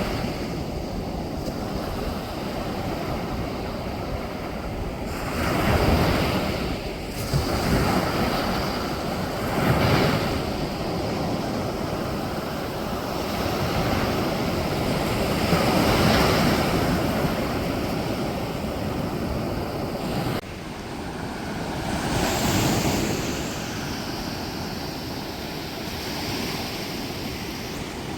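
Sea waves breaking and washing on a beach, the surf swelling and falling away every few seconds. The level drops suddenly about twenty seconds in, then the surges carry on.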